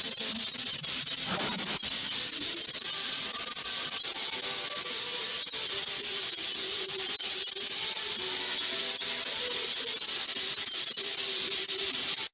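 Soviet Er-class steam locomotive letting off steam in a loud, steady hiss.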